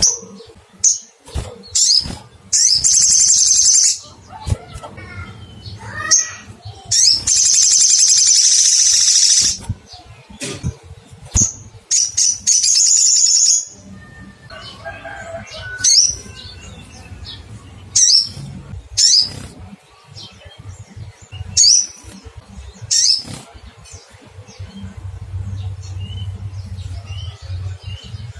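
Olive-backed sunbird calling: sharp, high 'cuit' notes repeated throughout, with three long, rapid, high trills in the first half.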